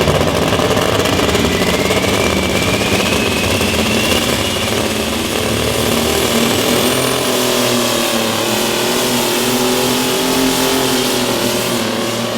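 A pulling vehicle's engine running loud at high revs, its pitch shifting, with a thin tone gliding upward over the first few seconds.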